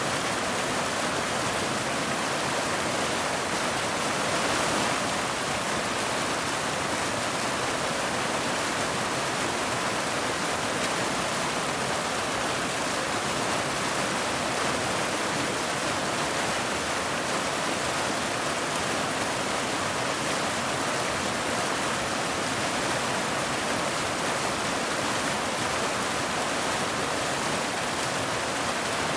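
Steady rain: a continuous, even hiss that swells slightly about four seconds in.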